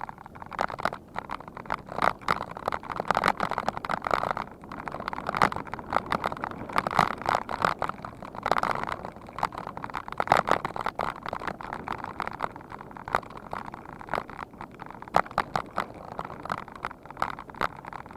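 Bicycle rattling and clattering as it rides, with many irregular knocks and clicks.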